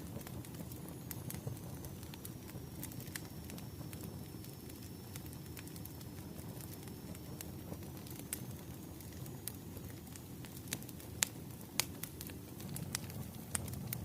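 Burning firewood crackling, with scattered sharp pops over a steady low rumble of the flames; two louder pops come about eleven and twelve seconds in.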